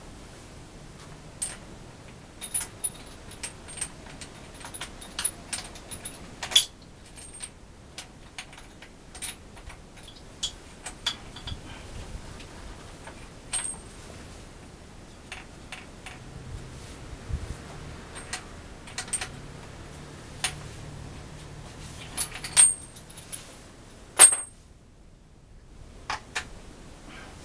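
Irregular metallic clinks and taps of metal objects being handled, with no engine running.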